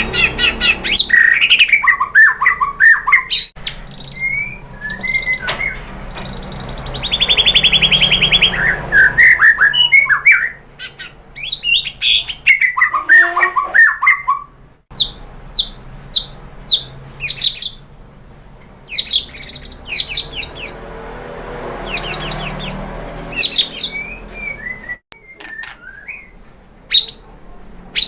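White-rumped shama (murai batu) singing a long, varied song of quick whistled notes, fast rattling trills and chattering phrases, broken by short pauses.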